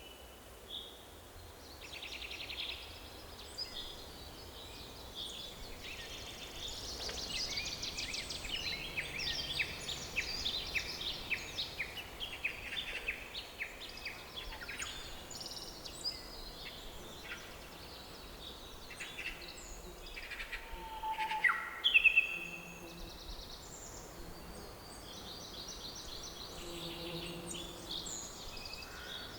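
Several songbirds chirping and singing in quick overlapping phrases over a faint steady hiss of forest ambience, with one louder call a little past the middle.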